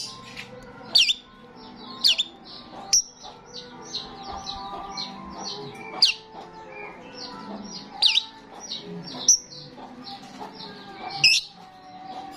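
A starling singing: a fast run of short chirps with loud, sharp whistled calls breaking in every second or two.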